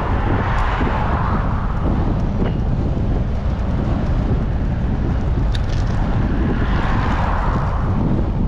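Wind buffeting a bicycle-mounted action camera's microphone, with road traffic passing close by: the tyre and engine noise of passing vehicles swells and fades in the first couple of seconds and again near the end.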